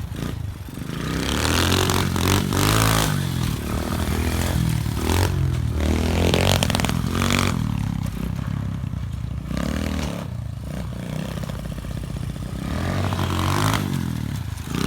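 An SSR 125 pit bike's single-cylinder four-stroke engine, revving up and down repeatedly as it is ridden, with clattering noise over it.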